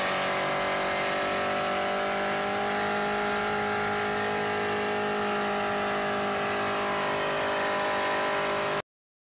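Drift car's engine held at steady high revs over a hiss of tyre noise; it cuts off suddenly near the end.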